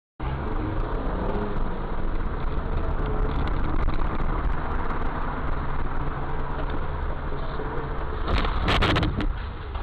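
Car driving, heard from inside the cabin: steady engine and road rumble. A louder, harsh burst of noise comes about eight and a half seconds in and lasts under a second.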